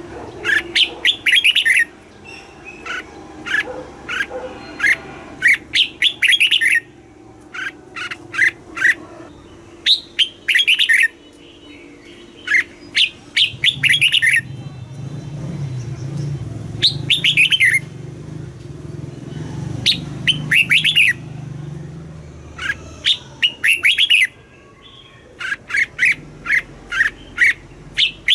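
Red-whiskered bulbul singing: short, bright, whistled phrases of quick falling notes, repeated again and again with brief pauses between them. A low hum sits underneath through the middle.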